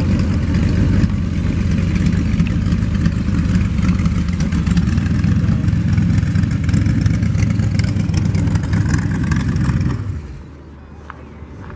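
Car engine running with a deep exhaust note as the car pulls in at low speed; the sound drops away suddenly about ten seconds in.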